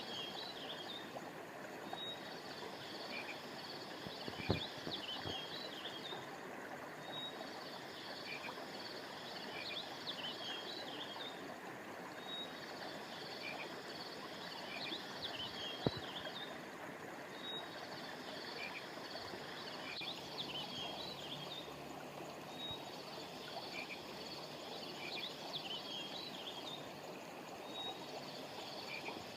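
Steady rush of a flowing river or stream. Over it come high chirping phrases about three seconds long, repeating every five seconds or so. Two sharp clicks stand out, one about four seconds in and one about halfway.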